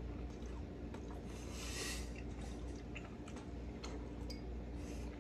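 A man chewing a mouthful of thinly sliced braised beef, with small wet mouth clicks. A short hiss comes about one and a half to two seconds in.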